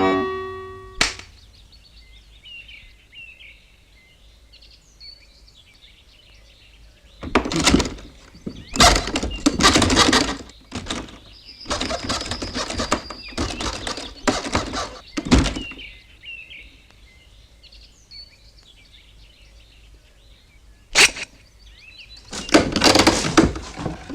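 Birds chirping faintly in the background. This is interrupted by several loud, rough noisy bursts lasting a second or two each, with a sharp knock near the start and another near the end.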